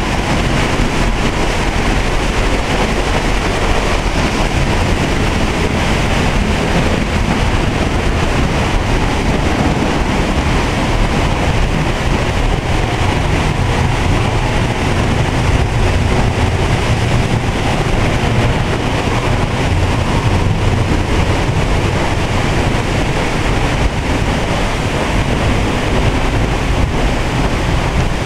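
Waterfall swollen with rainy-season water, a loud, steady rush of falling water that is heaviest in the low end.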